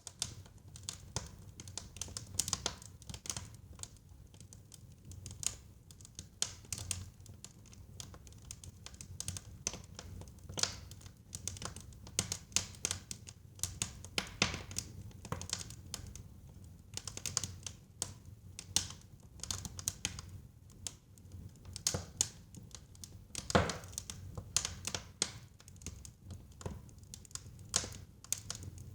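Wood fire crackling and popping in a fireplace: irregular sharp crackles and snaps over a steady low rumble of burning, with one louder pop near the end.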